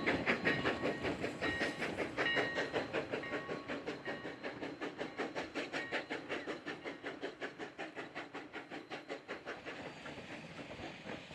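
Sierra No. 3, a 4-6-0 steam locomotive, chuffing in an even rapid beat of about four to five exhaust strokes a second, growing steadily fainter as the train moves away.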